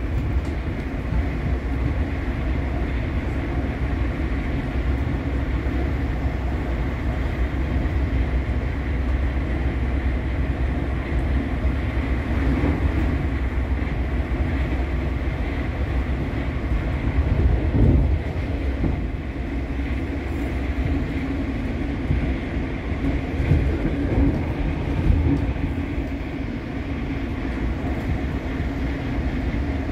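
Passenger train running at speed, heard from inside the carriage: a steady low running noise of wheels on track, with a few brief louder bumps.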